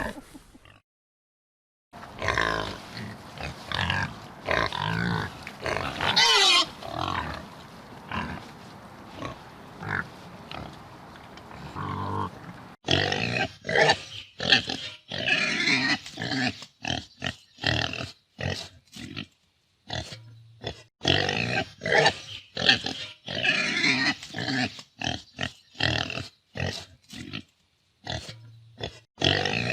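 Pig grunting in short, repeated calls. In the first part the grunts sit over a steady background hiss, with a few calls gliding up and down in pitch. From about 13 seconds in the background drops away and the grunts come sharper and quicker, each one separated by silence.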